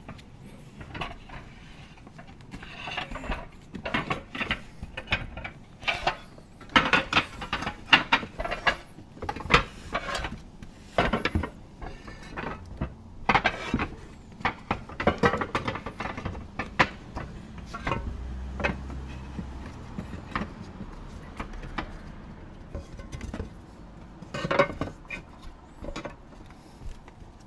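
Irregular series of knocks, taps and scrapes, with a low rumble about eighteen seconds in.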